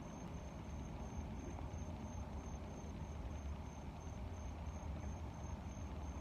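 A cricket chirping steadily, about three short high chirps a second, over a constant low hum of moving air.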